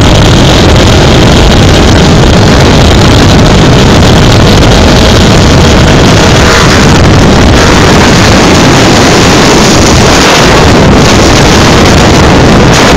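Motorcycle engine running loud, so close or so loud that the recording is overloaded and distorted.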